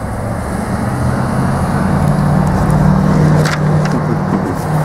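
Motor vehicle engine running close by, a steady low drone that grows louder over a few seconds, over street traffic noise.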